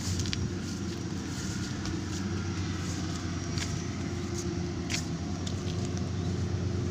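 Rice combine harvester engine running steadily, with a few sharp ticks and rattles over the drone.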